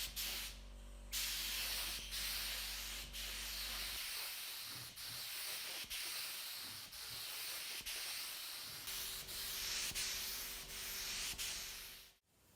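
Sanding: a rough rubbing noise in repeated strokes about once a second, with a faint steady hum under it at times, cut off abruptly near the end.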